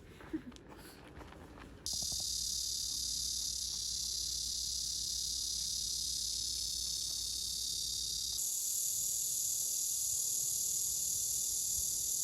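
Cicadas buzzing in a steady, high, dense drone that starts abruptly about two seconds in and shifts in tone about eight seconds in.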